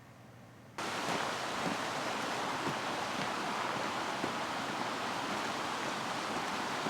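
Fremont River flowing: a steady rush of moving water that cuts in abruptly just under a second in, after a faint quiet hush.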